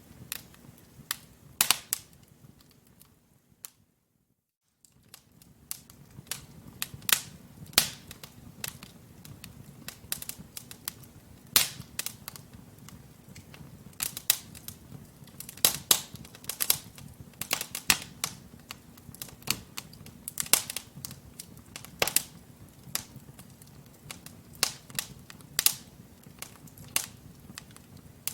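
Wood fire crackling in a fireplace: irregular sharp pops and snaps from the burning logs over a low, steady rumble of flame. The sound fades almost to nothing for about a second, roughly four seconds in, then the crackling resumes.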